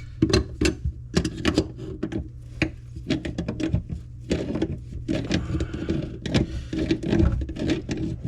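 Two wrenches clicking, clinking and knocking on the metal of a sink drain and its locknut as the nut is turned loose, in irregular short strokes and quick rattling runs.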